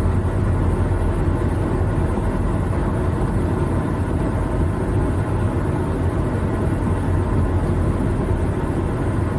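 Semi-truck's diesel engine running steadily at low speed with a constant low hum while the truck is manoeuvred into a parking spot.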